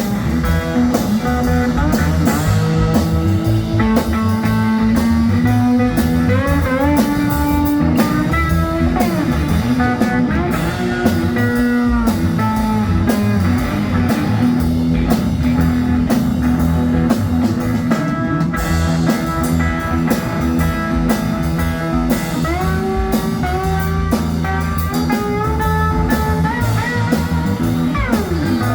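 Cigar box guitar playing an instrumental blues passage, its notes sliding and bending, over a steady drum beat.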